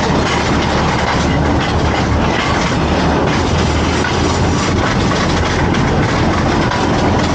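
Rail vehicle running along the track, with a steady rumble of wheels on the rails over a continuous low engine hum.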